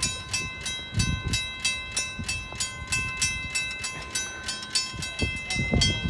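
Mechanical railway crossing bell ringing steadily at about three strokes a second, each stroke ringing on. It is sounding because the crossing has malfunctioned and is activated with no train approaching.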